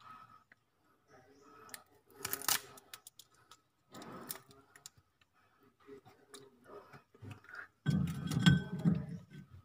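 Close-up mouth sounds of a person eating cooked goat meat: chewing, lip smacks and scattered small clicks, with a louder, fuller burst near the end.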